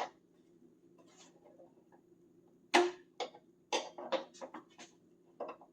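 Scattered sharp clicks and knocks with light rustling as a wiring harness is pulled through the firewall of a 1965 Chevrolet C10 cab. The loudest knock comes near the middle, followed by a quick run of smaller clicks. A faint steady hum sits underneath.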